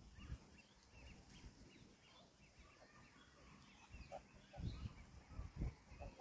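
Near silence with faint, scattered bird chirps in the background, and a few soft low thumps in the second half.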